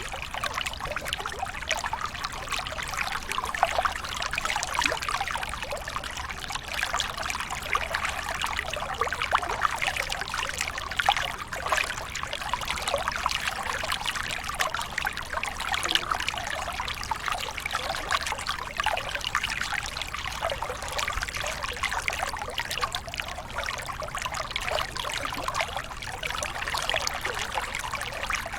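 Waterfall: water pouring and splashing steadily, a dense run of small splashes with no pauses.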